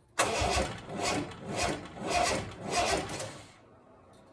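Triumph TR6 straight-six engine being cranked over by its starter motor in uneven surges for about three and a half seconds, then stopping without catching: a failed start that the owner puts down to the ignition.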